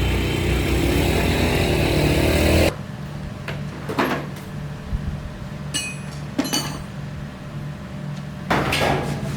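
A loud, steady motor running, cut off abruptly about a third of the way in. Scattered metal clinks and knocks of tools follow, a few with a short ringing tone, and a louder scraping noise comes near the end.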